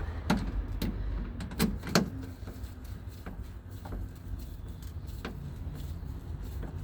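Sharp metal clicks and taps from hand tools and a car door latch assembly being worked on inside the door: four strong clicks in the first two seconds, the loudest about two seconds in, then a few fainter ones, over a low steady hum.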